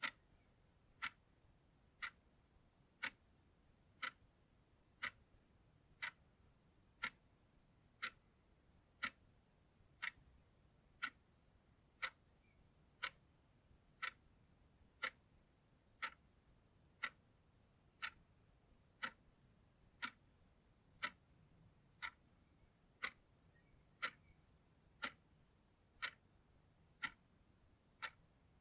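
Clock ticking steadily, one short, sharp tick every second.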